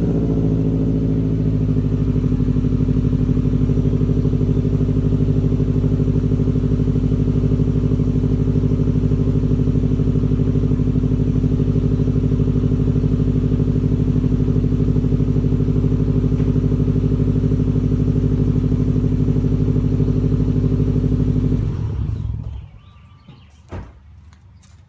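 2015 Subaru WRX STI's turbocharged 2.5-litre flat-four idling steadily through an Invidia catless downpipe and Nameless Performance axle-back mufflers. The engine cuts off near the end, followed by a single knock.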